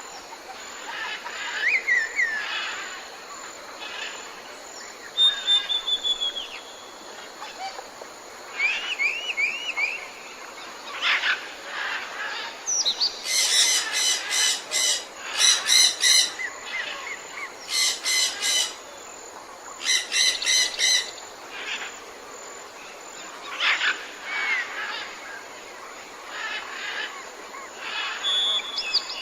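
Several tropical forest birds calling over a steady background hiss, with assorted short whistles, chirps and slurred notes. In the middle stretch, one bird gives four loud bursts of a rapid, buzzy chatter, each about a second long.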